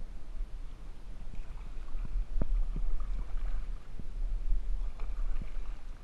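Kayak being paddled: paddle strokes splash in the water, with several short, light knocks over a steady low rumble.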